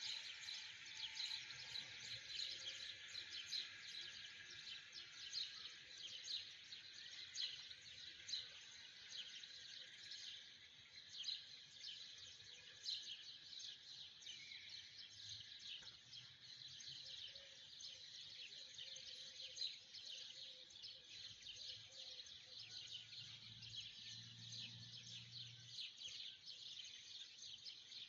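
Faint, continuous chorus of many birds chirping, with short calls overlapping thickly.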